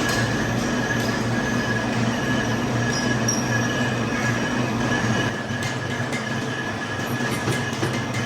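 Heavy workshop machine running with a steady low hum and a thin high whine, with metal-working noise over it. It gets slightly quieter about five seconds in, and a few light clicks follow near the end.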